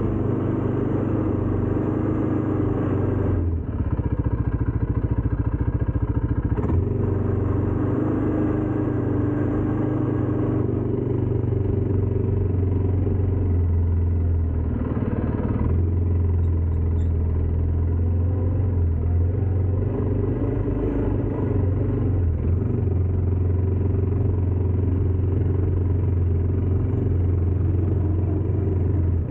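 ATV engine running, a continuous low engine note that shifts a few times.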